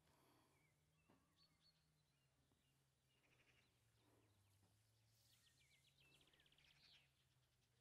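Near silence, with faint bird chirps and a quick trill of birdsong toward the end.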